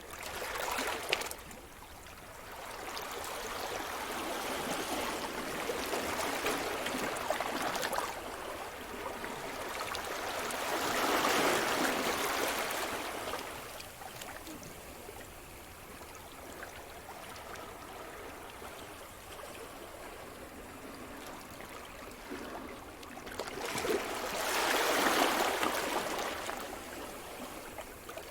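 Sea surf: waves breaking and washing in slow surges that build and fall away, the loudest rush a little before the middle and another near the end, with a softer wash between.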